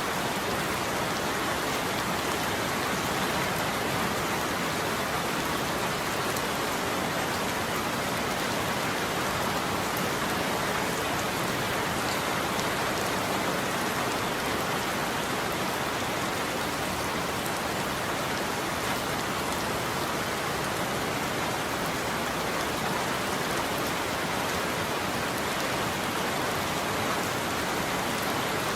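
Steady heavy rain falling on a surface, an even hiss of drops with faint individual drop ticks and no thunder.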